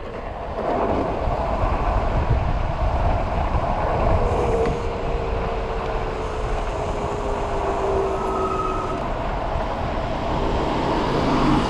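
Steady wind and road rumble on a body-mounted action camera while riding an electric bike, with a faint whine sliding slowly down in pitch through the middle.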